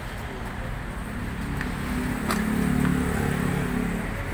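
A vehicle engine running with a steady low rumble that swells louder for about two seconds in the middle, with a few faint clicks.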